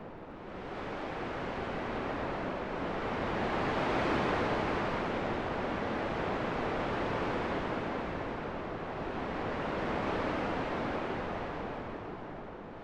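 Wind blowing in an even rushing hiss that swells over the first few seconds, eases slightly, swells again about ten seconds in, then dies down near the end.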